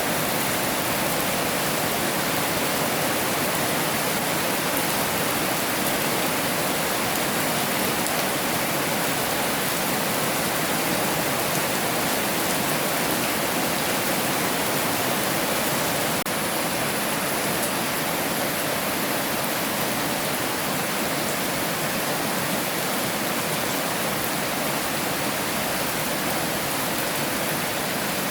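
Heavy rain falling as a steady, dense hiss, with a slight step down in level about halfway through.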